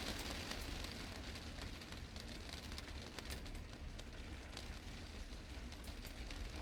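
Heavy rain falling on a glass greenhouse roof: a steady hiss with many separate drops ticking on the glass, over a low rumble.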